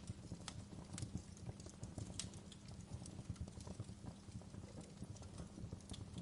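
Fireplace fire crackling: irregular sharp pops and snaps, a few louder than the rest, over a soft low rumble of burning.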